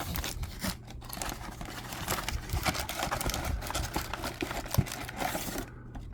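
Packaging being crinkled and torn open by hand: a small cardboard box of trading-card packs and the foil pack wrappers inside rustling, with quick clicks and one sharper snap. It stops shortly before the end.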